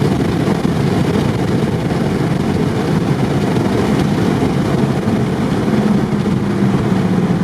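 Ford Focus ST MK2's turbocharged five-cylinder engine running loud through a catless straight-pipe exhaust, a steady drone whose pitch shifts slightly near the end.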